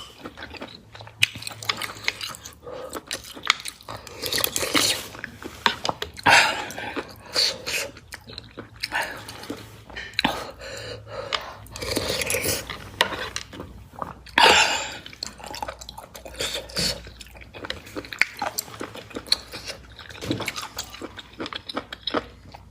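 Close-miked eating sounds of a rich braised soup: wet sips and slurps of broth with chewing of soft ingredients such as sea cucumber and abalone, coming in irregular bursts.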